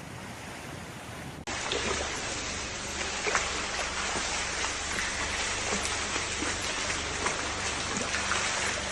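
Heavy rain falling, a dense steady hiss with many drops ticking on surfaces. A quieter, duller hiss comes first and cuts off suddenly about a second and a half in.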